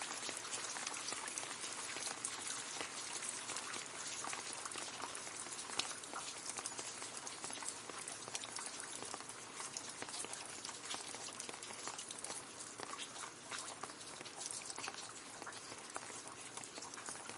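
Gentle rain falling on leaves: a steady patter of many small drops, each a light tap.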